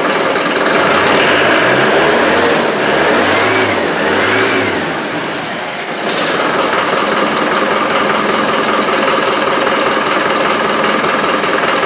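Land Rover 110's freshly installed engine running cold just after its first start. It is revved twice, the pitch rising and falling, about three to five seconds in, then settles to a steady idle.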